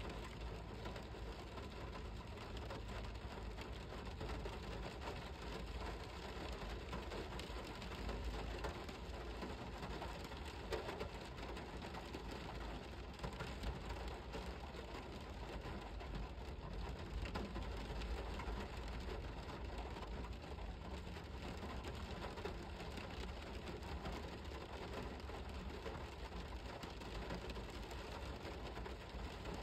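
Steady rain falling: a dense, even patter of drops with a steady low rumble beneath, unchanging throughout.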